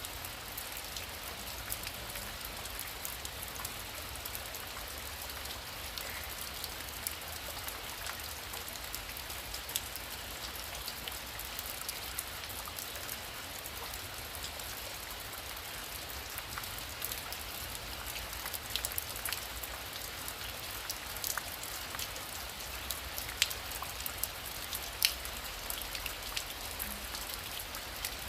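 Heavy rain falling steadily: a constant hiss with the sharp taps of individual drops, and a few louder drop hits in the last few seconds.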